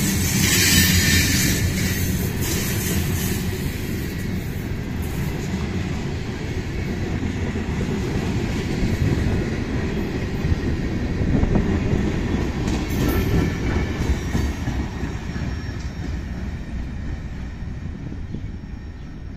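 Freight train of covered hopper and tank cars rolling past, steel wheels rumbling and clattering on the rails, with a brief high screech in the first couple of seconds. The rumble slowly fades toward the end.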